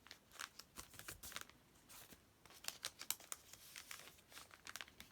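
Faint rustling and crinkling of paper being handled, in a string of short, irregular crackles.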